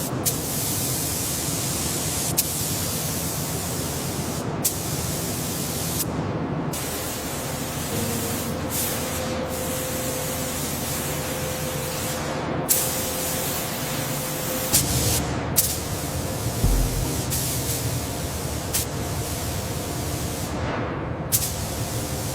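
A steady hiss like a spray jet, broken by occasional sharp clicks and a few brief dropouts.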